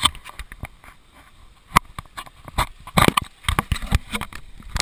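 A run of irregular sharp clicks and knocks, a dozen or more, clustered in quick bursts.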